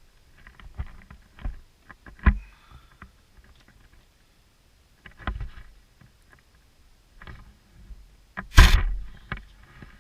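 Scattered knocks and clicks of metal parts and hand tools being handled while a transmission filter is fitted, with a louder, longer clatter near the end.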